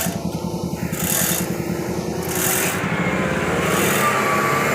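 Tow truck engine running under load, with a rough rasping scrape as the overturned truck is dragged; a faint whine rises slowly in the second half.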